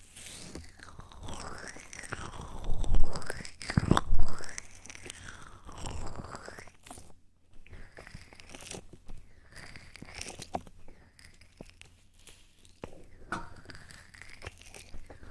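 Close-mic ASMR trigger sounds: crackly rubbing and scratching right at the microphone, with sweeping swishes and a few louder knocks about three to four seconds in.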